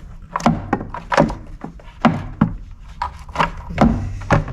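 Engine air box being shoved and worked into place against the throttle body: a string of irregular knocks, clicks and clunks, several to a second, as it fails to line up.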